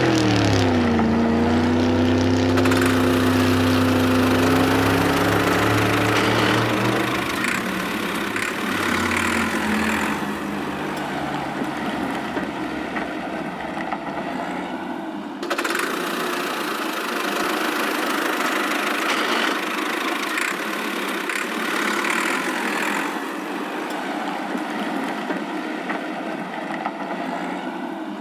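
Vehicle engine sound effects. Within the first second an engine's pitch drops to a steady running note that holds for several seconds, then gives way to a rougher, noisier engine sound, with an abrupt change about halfway through.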